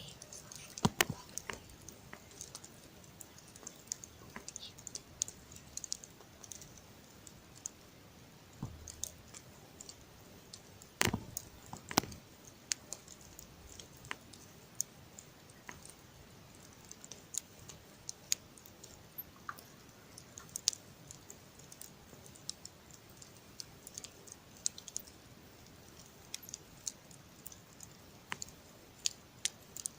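Campfire wood burning with irregular crackles and sharp pops, a few of them louder, about a second in and around the middle.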